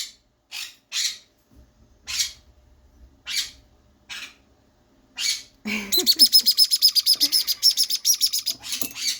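Fourteen-day-old sun conure chick giving high-pitched food-begging chirps: a few separate chirps about a second apart, then a fast run of about eight chirps a second from about six seconds in.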